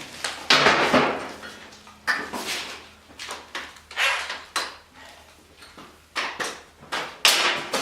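Irregular knocks and clunks from a steel wheel chock and its hardware being handled and fitted on a motorcycle lift table. There are about eight separate impacts, each dying away quickly.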